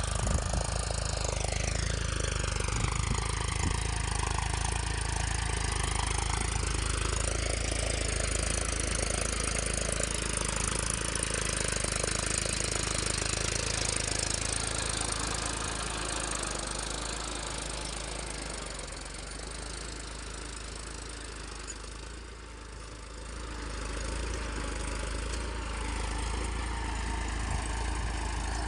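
Eicher tractor's diesel engine running steadily with a low, even hum, easing off to quieter about two-thirds of the way through and then picking up again.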